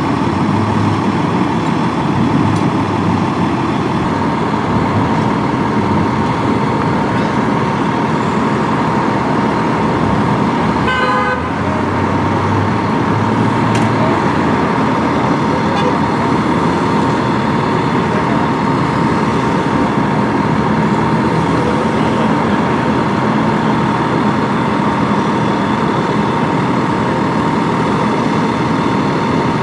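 Steady noise of road traffic and idling vehicles, with a continuous high-pitched tone running under it. A brief voice sounds about eleven seconds in.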